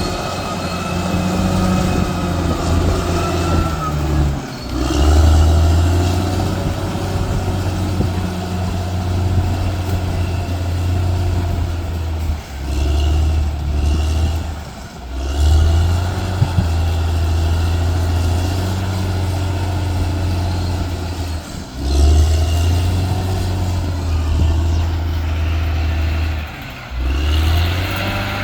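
Bulldozer's diesel engine running under load, its pitch rising and falling as it works, with several brief dips in level.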